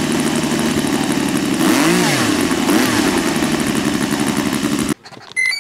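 A small engine, likely a model aircraft's, running loud and steady. A voice calls over it about two seconds in, and the engine cuts off abruptly near the end.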